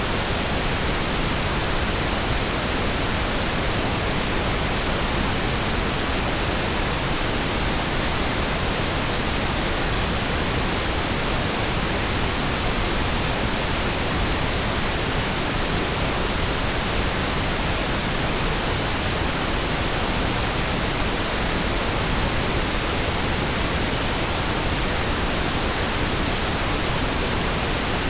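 Synthetic pink noise: a steady, even hiss across all pitches with no changes.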